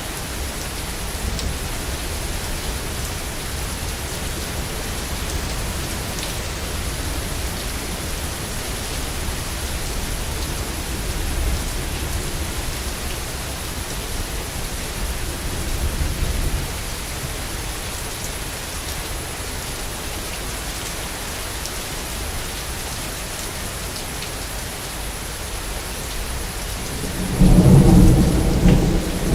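Steady heavy rain falling, under a low thunder rumble. Near the end a louder roll of thunder swells up.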